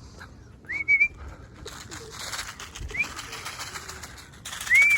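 Short rising whistles, one about a second in and another about three seconds in, then a longer warbling whistle near the end: a pigeon fancier's call-in whistle to bring racing pigeons down to the loft. Faint pigeon cooing lies underneath.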